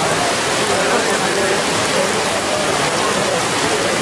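Rain falling steadily, an even hiss, with faint voices underneath.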